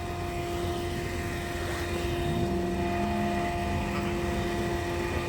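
Garbage truck's diesel engine running: a low rumble under a steady whine, with a second, lower tone joining about halfway through.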